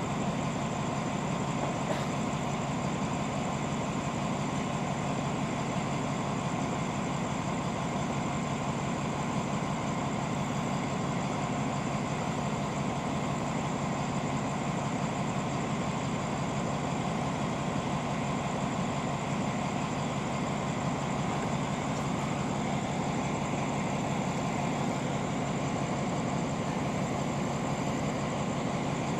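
Diesel train standing at a station platform with its engine idling: a steady, unchanging engine hum.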